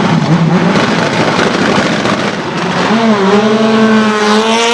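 Skoda Fabia WRC rally car's engine at full throttle, loud and rough at first. About three seconds in it settles into a steady, high-revving note.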